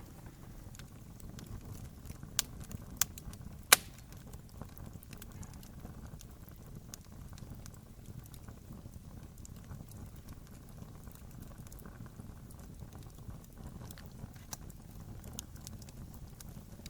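Wood fire burning, crackling steadily with a low rumble of flames, and three loud pops a couple of seconds in.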